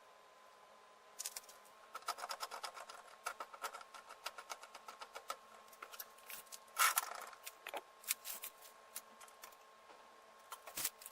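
Metal parts being handled: irregular clicks, knocks and light rattles starting about a second in, with a brief scrape about seven seconds in.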